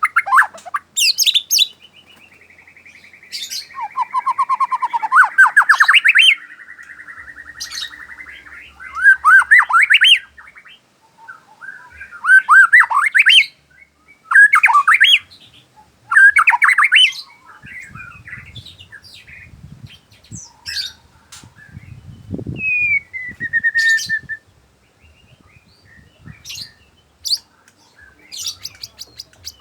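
A murai (white-rumped shama) singing: loud, rising whistled phrases repeated every second or two, with a long fast trill early on. The song grows sparser and quieter in the second half.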